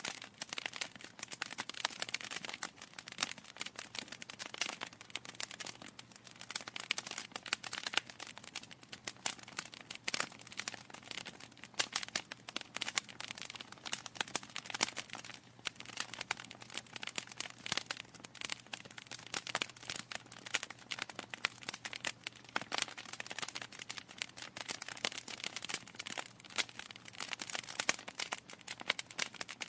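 Wood fire in a fireplace crackling steadily, with dense irregular pops and snaps from the burning logs.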